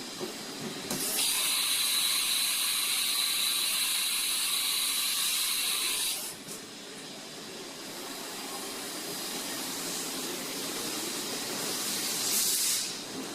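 Haas VF3 CNC vertical machining centre cycling through its program, with mechanical clicking and clunking of its moving parts. From about a second in to about six seconds there is a loud high hiss with a steady whine; it drops to quieter running, and a short sharp hiss comes near the end.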